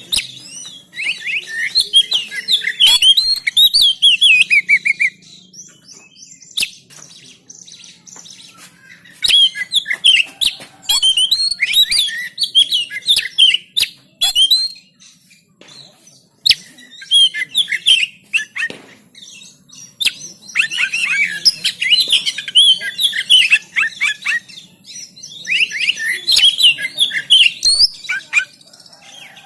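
Oriental magpie-robin (kacer) singing in loud, rapid phrases of varied whistles, trills and chattering notes, about five bursts of a few seconds each with short pauses between them. A few sharp clicks and a faint steady low hum run underneath.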